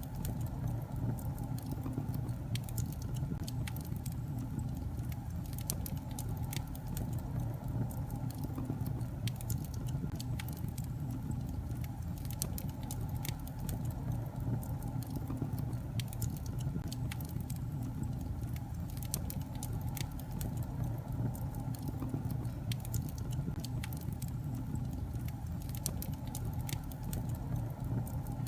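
Wood fire burning in a fireplace: a steady low rumble of the flames with many small, irregular crackles and pops from the logs.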